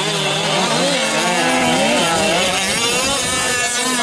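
Several 1/5-scale gas RC trucks' small two-stroke engines running together, their pitches wavering up and down as the trucks throttle on and off around the track.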